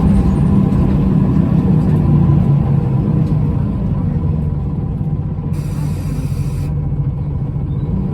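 Scania L94UB single-decker bus's engine and ZF automatic gearbox running steadily under way, a loud low drone that eases slightly in the middle. About five and a half seconds in comes a hiss of air lasting about a second.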